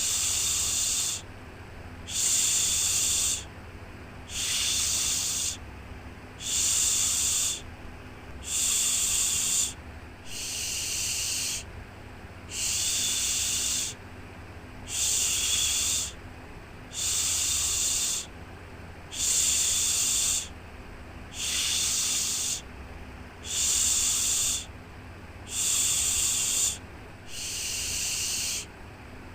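A soothing 'shhh' shushing sound for babies, repeated in even hissing pulses about one every two seconds, each lasting a second or so, over a faint steady low hum.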